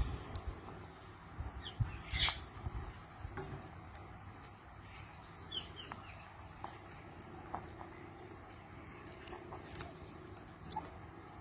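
Indian ringneck parakeet giving a few short squawks and chirps; the loudest squawk comes about two seconds in, with short falling chirps later. Light sharp clicks come near the end.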